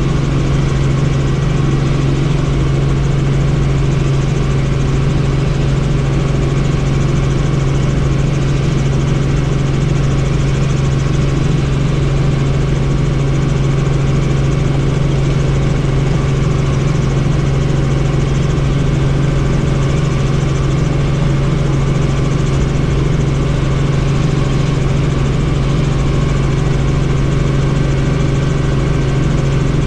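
Helicopter running steadily in flight: a loud, constant mechanical drone with a strong low hum and steady tones above it, unchanging throughout.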